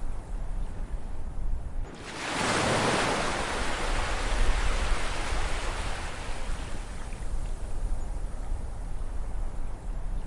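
Ocean waves on a shore: a low steady rumble, then about two seconds in a wave breaks and washes in with a loud hiss that slowly fades away over the next several seconds.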